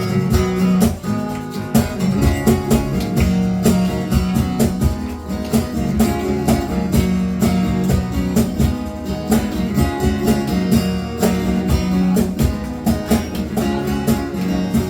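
Instrumental outro of a live acoustic song: strummed acoustic guitar over a steady beat of cajon hits.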